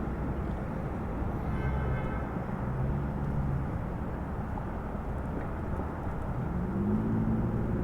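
Jet airliner engine noise, a steady rumble with a low tone that rises near the end.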